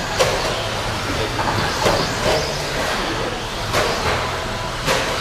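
A pack of 13.5-class brushless electric RC stadium trucks running around the track: a steady whirring and rumbling, with sharp plastic clacks several times.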